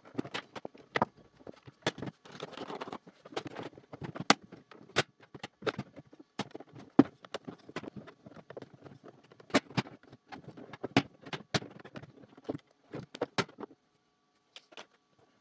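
Irregular clicks and light knocks of hard plastic parts being handled, as when a robot vacuum is being taken apart. There is a short pause near the end.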